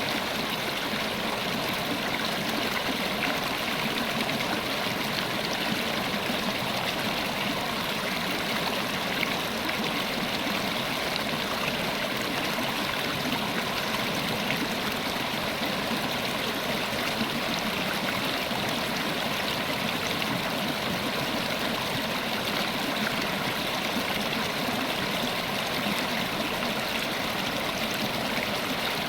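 River water flowing steadily over stones, an even rushing and burbling with no break.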